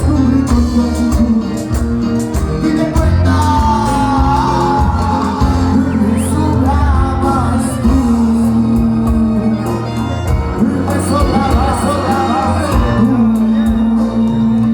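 Live cuarteto band playing, with a steady beat, bass and a sung lead vocal.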